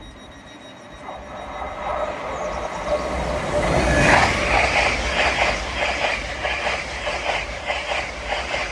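An LNER Class 801 Azuma train passing through the station without stopping. The rail noise builds from about a second in to its loudest around four seconds, then carries on as a fast, even beat of wheels over the rail joints.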